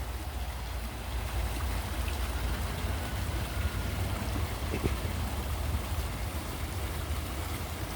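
Steady splashing and trickling of a small pond fountain, with a constant low rumble underneath.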